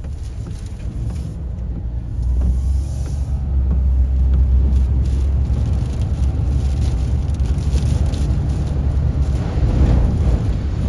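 Typhoon wind gusting, a heavy low rumble that grows louder about two seconds in.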